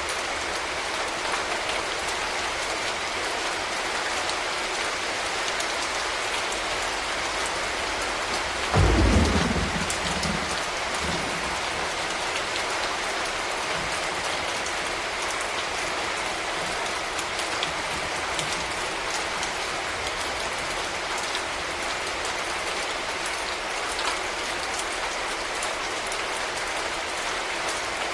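Steady rain falling and pattering on surfaces. About a third of the way in comes a sudden low rumble of thunder, which fades over a couple of seconds.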